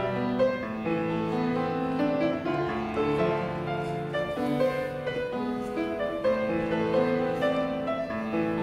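Piano music: a moving line of notes over longer held low notes, continuing without a break.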